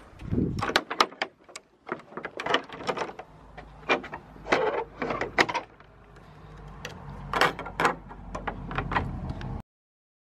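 A run of irregular knocks, clicks and rattles, as from a gate and door being opened, shut and latched, over a low rumble. The sound cuts off suddenly near the end.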